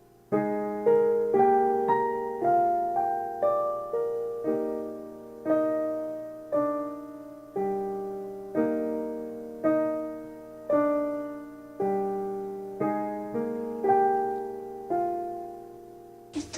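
Background piano music: slow, gentle chords and notes struck about once a second, each left to ring and fade.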